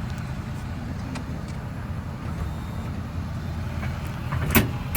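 A tow vehicle's engine running low and steady while it backs up to hitch a travel trailer, with a few light clicks and a sharp knock near the end.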